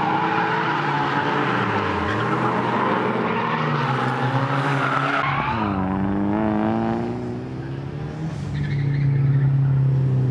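A drifting car's engine is revving hard while the tyres screech. About six seconds in, the revs dip and climb again, and near the end the engine settles into a steady, loud note.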